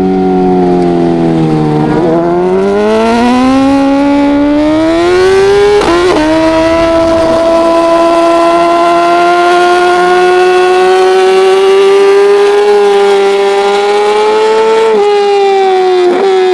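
Racing motorcycle engine at full race revs, its pitch falling as it slows about two seconds in, then climbing hard under acceleration with a sharp gear change around six seconds, held high and slowly rising until a drop near fifteen seconds, then further quick breaks in pitch near the end.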